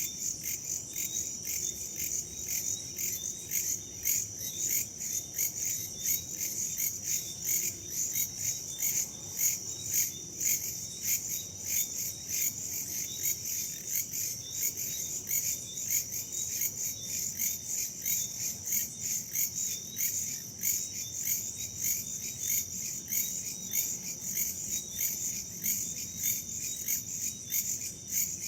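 A dense chorus of crickets and other insects chirping in a fast, steady, even pulse.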